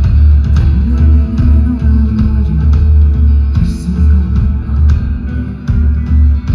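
A rock band playing live and loud: electric guitar, a heavy bass line and drums, with some singing.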